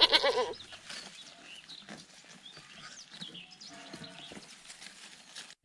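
A loud, wavering bleat that ends about half a second in, followed by quieter farmyard background with faint, high chirps.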